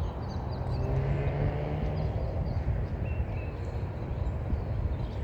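A steady low engine hum, with a few faint short bird chirps over it.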